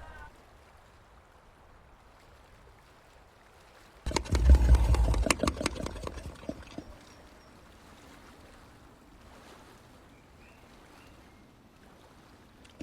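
A burst of rapid clicks and knocks over a low rumble, starting about four seconds in and fading over about three seconds, with faint background noise around it; from white-lipped peccaries.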